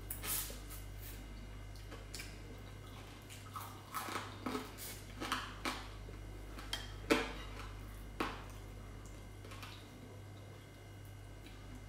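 Close-up eating sounds of fried fish eaten by hand: irregular lip smacks and wet chewing clicks, the sharpest about seven seconds in, over a steady low hum.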